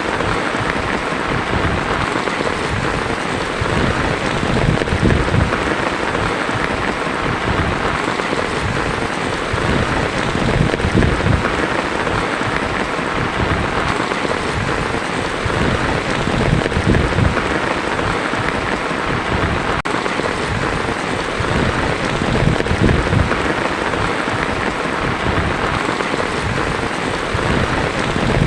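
Heavy rain falling steadily on a tin roof, a dense, even patter.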